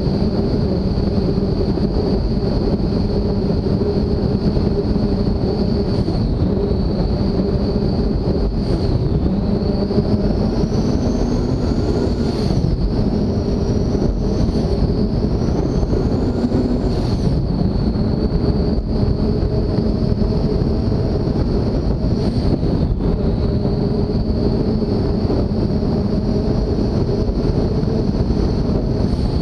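The engines of a 44-foot MTI race boat running hard at speed: a loud, steady drone with a high whine that climbs and falls back several times, with wind on the microphone.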